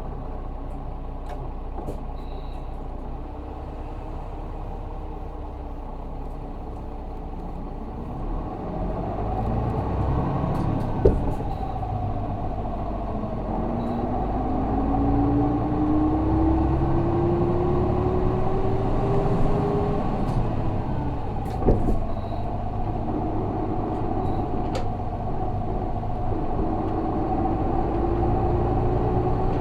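Isuzu Erga city bus's 6HK1 diesel engine heard from inside the cabin, running quietly and then pulling harder from about eight seconds in. A whine climbs steadily in pitch as the bus gathers speed, drops with a click a little past twenty seconds, and starts climbing again near the end.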